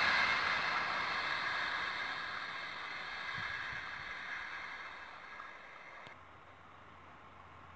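HŽPP passenger multiple unit receding down the line, its running noise fading steadily as it goes. About six seconds in, the sound cuts to a faint low background hum.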